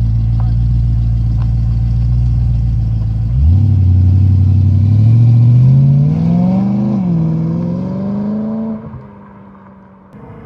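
BMW M3 V8 running through a Supersprint aftermarket exhaust: a steady low drone, then about three and a half seconds in the pitch jumps and climbs as the engine revs up, dips once and climbs again. Near the end the engine sound falls away sharply and fades.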